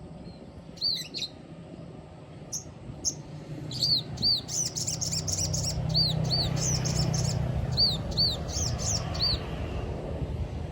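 Sogon sunbird singing: a rapid series of short, high, arched chirps, sparse at first and then a dense run in the middle. A low hum sits underneath.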